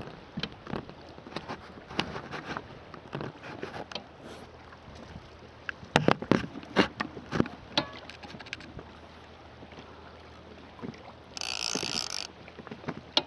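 Water lapping and slapping against the hull of a small anchored boat, with irregular knocks and a louder cluster of slaps about midway. A brief hiss comes near the end.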